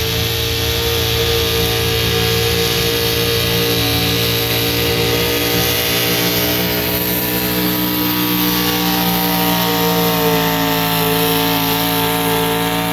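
Pulling truck's engine held at high revs under full throttle through a long pull, its pitch nearly steady with a slight waver, then the throttle is let off at the very end and the revs fall away.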